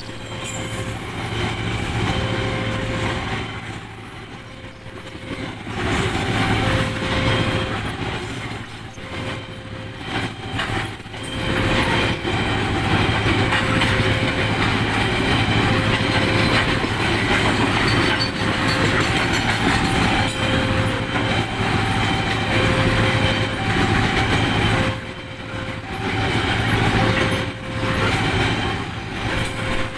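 Long Babaranjang coal train of many wagons rolling past in a steady, loud rumble, with wheels clattering over the rails and the loudness swelling and dipping. A short, fixed-pitch tone repeats about once a second throughout.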